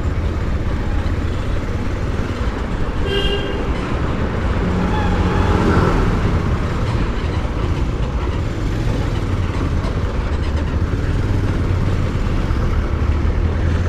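Steady ride noise from a motorcycle: a low engine and road rumble with wind hiss on the microphone. A vehicle horn gives a short toot about three seconds in.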